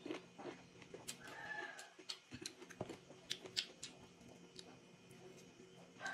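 Close-up mouth and hand sounds of eating a juicy pomelo: scattered sharp wet clicks, smacks and crackles of the pulp. About a second and a half in, a chicken gives one brief call in the background.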